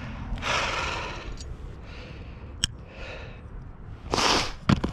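A roofing nail being worked out of an asphalt shingle: a few short scrapes, a single sharp click near the middle, and a louder scrape near the end followed by two quick sharp knocks.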